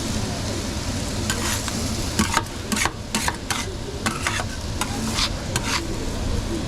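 Repeated scraping and clicking of a metal utensil against a pan or tray, a dozen or so quick strokes, over a steady low kitchen rumble.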